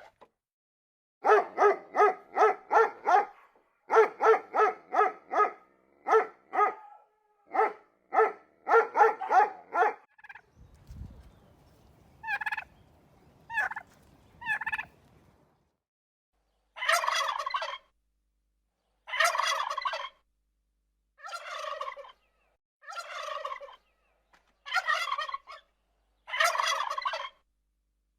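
Turkeys gobbling. The first ten seconds hold quick runs of rattling gobbles. After that come three short calls over a low rumble, and then six longer gobbles about two seconds apart.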